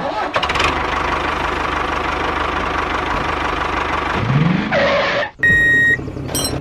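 Tractor engine running steadily. Near the end it cuts out for a moment, and a high reversing beep sounds.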